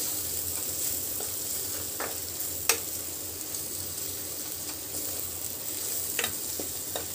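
Onion-tomato masala with green chillies and spice powders sizzling in oil in a kadai, stirred with a steel spatula that scrapes and taps against the pan. A steady sizzle, with a few sharp spatula clicks, the loudest about two and a half seconds in.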